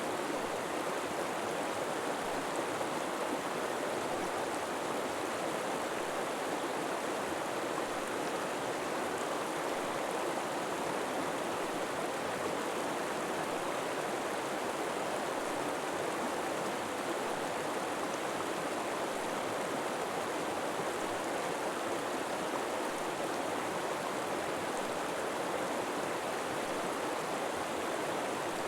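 River water flowing steadily over rocks, a constant even rush with no changes.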